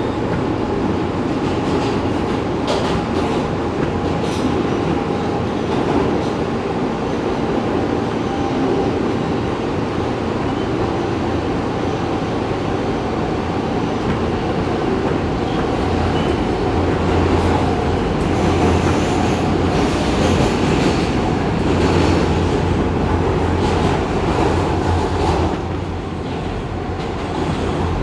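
New York City subway train running at speed, heard from on board: steady wheel and track noise with clicks from the rail joints and a steady motor whine. It gets louder about two-thirds of the way through and drops briefly near the end.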